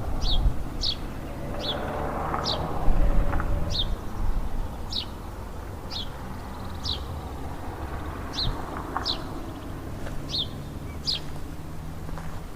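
A bird repeating a short, high chirp about once a second, each note a quick downward slide in pitch, over a low rumbling background.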